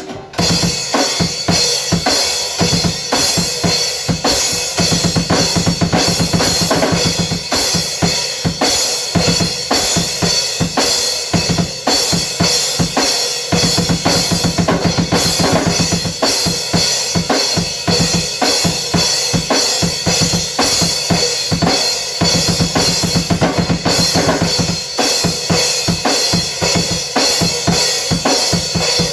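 Drum kit played hard and continuously: fast, dense bass drum and snare hits under steady cymbal wash.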